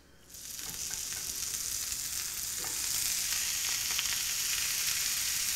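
A block of dry ramen noodles sizzling as it is laid into a hot grill pan. The sizzle starts just after the noodles go in and grows steadily louder.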